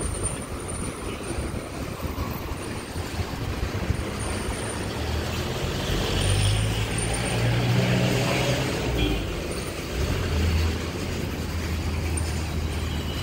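Street traffic: a steady wash of road noise with a heavy vehicle's low engine hum, which swells as it passes about halfway through and comes back near the end.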